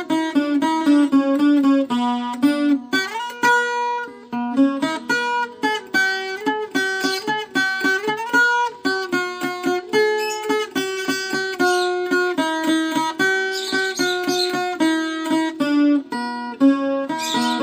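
Viola caipira, the Brazilian ten-string folk guitar, picking a melody in quick plucked notes, with a sliding note about eight seconds in.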